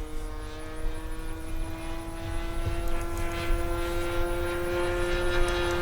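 Engine and propeller of a 1:6.5 Phoenix Cessna 182 RC model airplane in flight, a steady drone whose pitch rises slightly as it gets a little louder.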